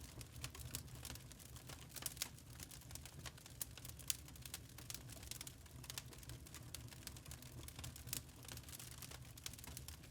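Wood fire crackling in a fireplace: dense, irregular small pops and snaps over a low steady rumble of the flames.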